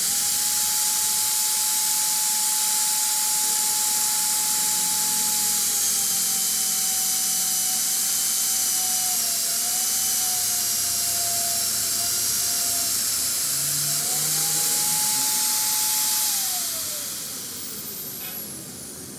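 A high-speed electric grinder works metal with a high whine and a strong hissing grind. The pitch sags and wavers as the tool is pressed into the work. Near the end it is switched off and spins down, its pitch falling away.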